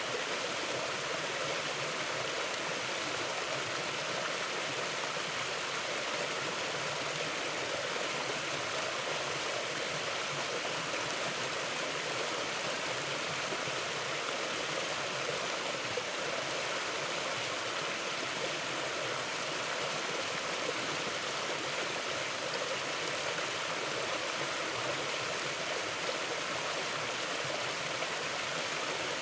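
Mountain river rushing steadily over rocks, an even, unbroken wash of water noise.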